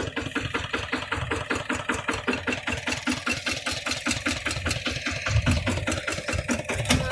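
Kubota hand tractor's engine running with a steady, rapid chugging beat.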